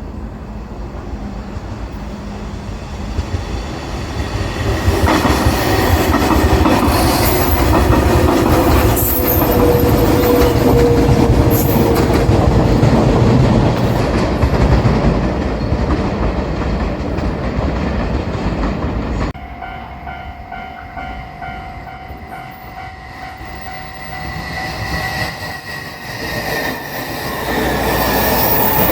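A JR Shikoku limited express electric train passes over a level crossing. The sound grows a few seconds in and stays loud for about fifteen seconds, with wheels clattering over the rail joints. After an abrupt cut, a level-crossing warning bell rings with a steady repeating tone, and the sound of another approaching train builds near the end.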